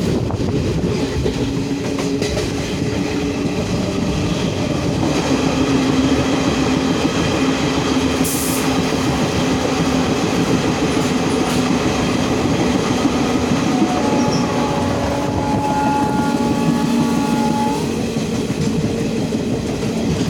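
A train running on its track: a steady, loud rumble of wheels on rails, with thin steady tones riding over it and a few higher ones from about two-thirds of the way in.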